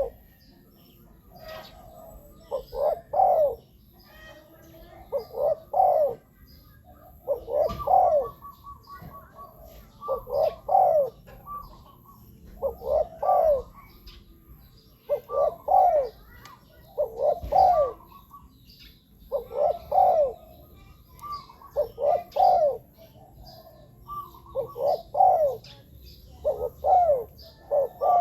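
Spotted dove cooing: a short phrase of several rolling coos, repeated about every two seconds.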